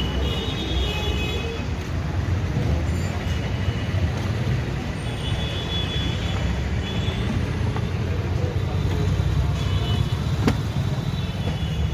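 Steady low rumble of vehicle and road-traffic noise, with a few brief high-pitched tones and a single sharp click about ten and a half seconds in.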